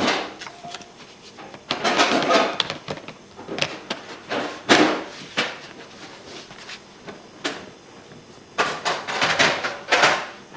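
Irregular handling noise: sharp clicks and knocks mixed with short scraping or rustling bursts, in clusters about two seconds in, near the middle and near the end.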